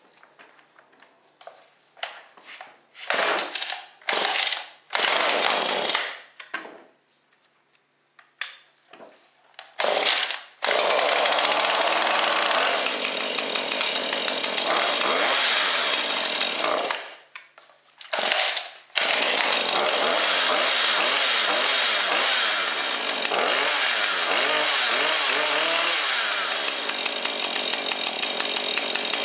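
Husqvarna 435 two-stroke chainsaw being pull-started after priming: several short bursts from the starter pulls before it catches about ten seconds in. It runs, cuts out briefly, then is restarted and keeps running.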